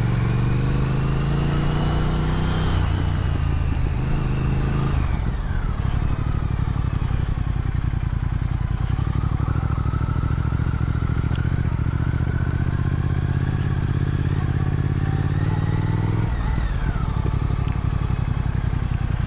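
Motorcycle engine running under way, its note climbing as it accelerates, with a sharp drop in pitch about five seconds in and again near the end of the climb around sixteen seconds.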